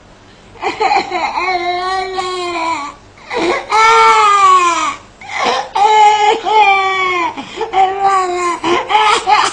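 An animal giving a run of loud, wailing cries that sound like a baby crying, each call a second or so long and arching in pitch.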